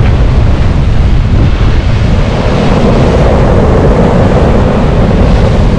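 Strong wind buffeting an unshielded microphone, a loud, steady low rumble, over the rush of storm surf breaking on the shore.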